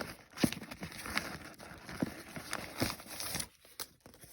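Fireworks packaging being handled: rustling plastic and cardboard with a string of irregular light knocks and clicks as pieces are pulled out of the box and set down.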